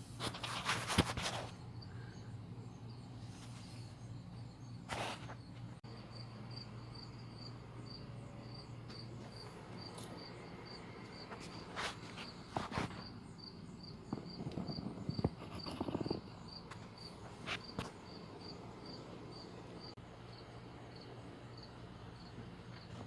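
Occasional short knocks and rattles, the loudest about a second in and around twelve to eighteen seconds in, over a steady low hum. Behind them a high insect-like chirp repeats about three times a second.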